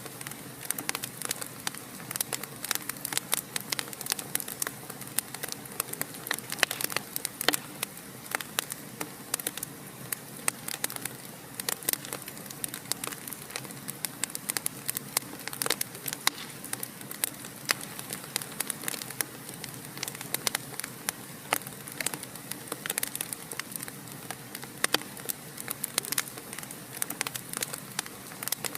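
Fire in a fireplace crackling: many irregular sharp pops and snaps each second over a steady soft hiss.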